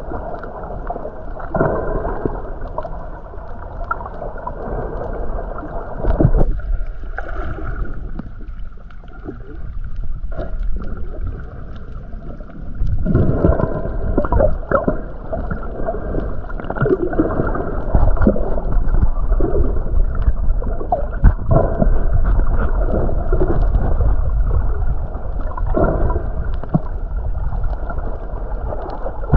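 Muffled water gurgling and sloshing over a low rumble, with nothing high-pitched in it. It drops quieter from about six to thirteen seconds in, then comes back.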